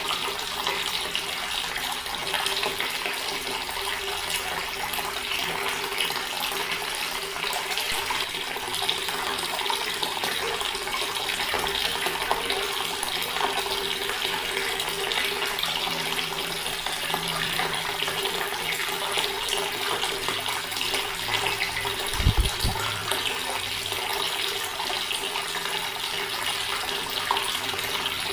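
Water running steadily from a tap, an even splashing hiss. A brief low thump comes about three-quarters of the way through.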